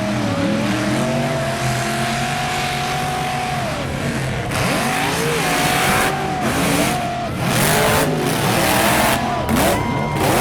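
Mega truck engine revving hard, its pitch climbing and falling again several times over a steady hiss of spinning tires.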